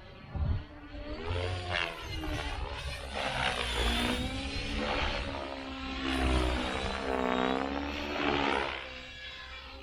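Electric Synergy E5 R/C helicopter in flight, its rotor and motor whine sweeping up and down in pitch several times as it manoeuvres.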